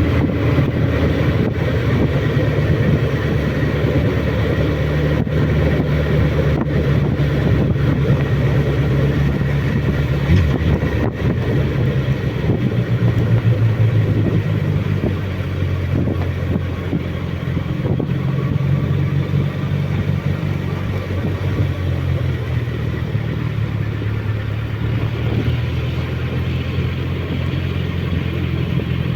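Suzuki Bandit motorcycle's inline-four engine running steadily on the move, its low note shifting only slightly, under a constant rush of noise.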